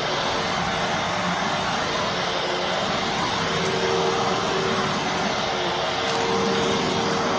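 Fantom Fury Special Edition bagless vacuum cleaner running steadily: an even rush of air under a motor whine that holds one pitch.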